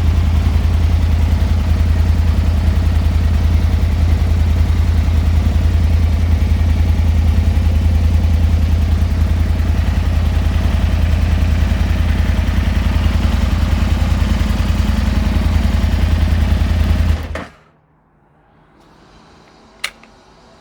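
Aprilia Tuono 1000 R's 1000cc V-twin engine idling steadily, then shut off about seventeen seconds in. A single sharp click follows a couple of seconds later.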